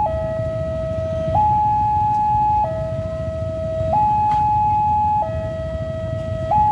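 Railway level-crossing warning alarm sounding a two-tone hi-lo signal, a lower and a higher note alternating about every 1.3 seconds, warning that a train is approaching. A low rumble runs underneath.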